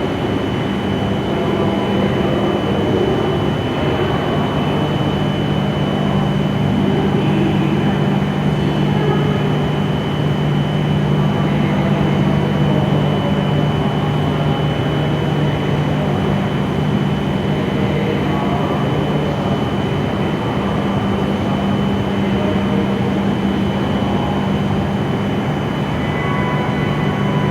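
E7 series Shinkansen standing at the platform, its onboard equipment giving a steady low hum with a faint high whine over a station hiss. Near the end new tones start up, as the train's equipment begins to work toward departure.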